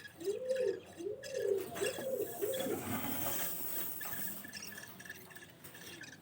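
A bird cooing in a quick, even series of low arching coos, about two a second, which stop about three seconds in.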